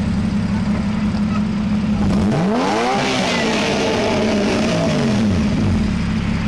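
A car engine revved once: its pitch climbs quickly about two seconds in, then falls back slowly over the next few seconds, over a steady low engine drone.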